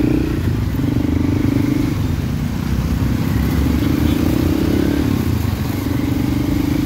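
Road traffic with a motor vehicle engine running: a steady low rumble with an engine hum that rises and falls in stretches of about a second.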